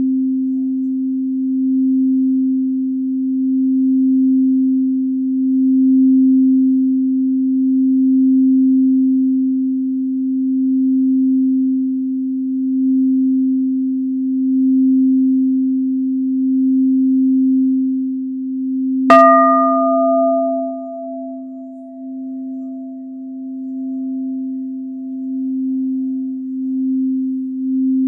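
Singing bowls: a low bowl holds a steady deep tone that gently swells and fades, and about two-thirds of the way through a higher-pitched bowl is struck once and rings out over several seconds.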